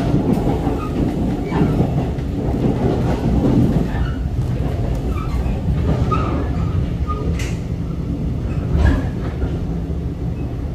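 Passenger train running along the track, heard from inside the carriage: a steady low rumble, with two sharp clicks in the second half.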